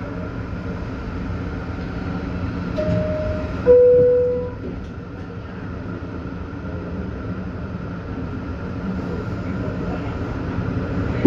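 New York City subway car's two-note door chime, a higher tone and then a lower, louder, longer one about three to four seconds in, signalling that the doors are closing. Under it, the steady rumble of the subway car.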